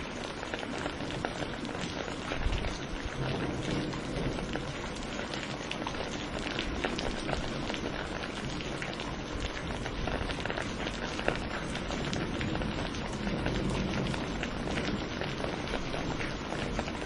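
Steady rain falling, an even hiss of water dense with the sharp ticks of individual drops striking a surface.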